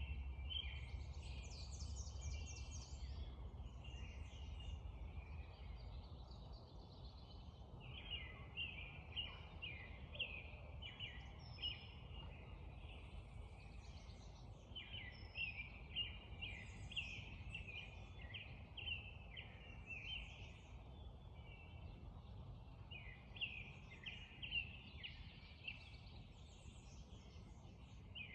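Spring dawn chorus: several songbirds singing and calling over one another in quick repeated notes and trills, over a low rumble that eases after the first several seconds.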